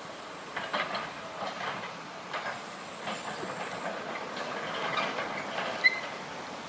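Excavator at work: irregular metallic clanks and knocks, with a brief high squeak near the end.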